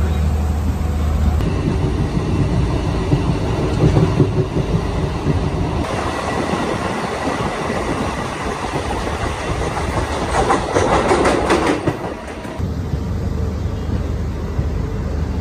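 Diesel multiple-unit (DMU) passenger train running along the track, heard from beside the coach: steady rail and running noise. About ten seconds in, the wheels give a quick run of clacks over the rail joints.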